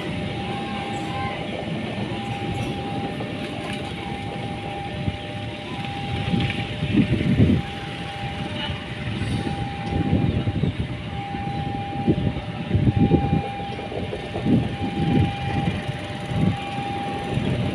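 Train running past with an uneven low rumble that swells and dips. Over it a steady high tone repeats with short breaks about every one and a half seconds.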